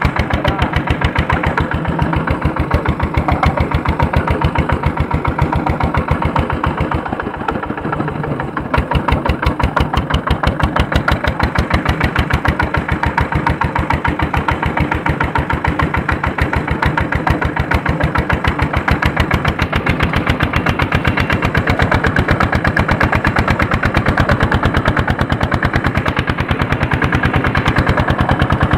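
Tractor's Andoria S-231 diesel engine running under load while harrowing, with an even, rapid beat of exhaust pulses. Its loudness sags a little just before nine seconds in, then picks up and holds steady.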